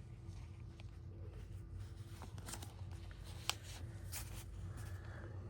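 Paper and card pieces being handled: soft rustling and sliding with light taps, and one sharp click about three and a half seconds in, over a faint steady hum.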